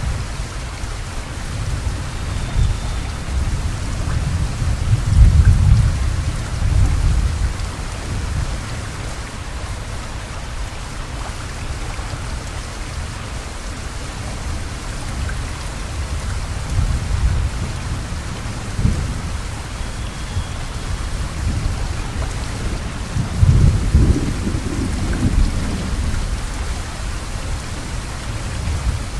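Heavy rain pouring steadily as an even hiss, with two low rumbles, one a few seconds in and one near the end, that are the loudest moments.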